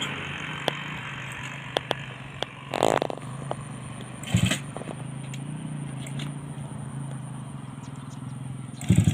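Motorcycle engine idling steadily, with scattered clicks and a few short bursts of metallic clatter, about three seconds in, about four and a half seconds in, and near the end.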